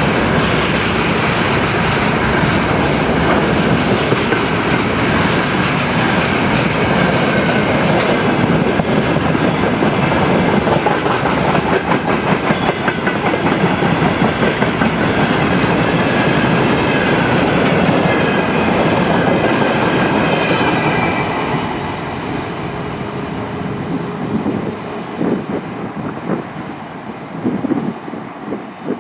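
A loaded freight train's wagons rolling past with the clickety-clack of wheels over rail joints and a faint high ringing of wheel on rail. About three-quarters of the way through the noise drops away as the train goes by.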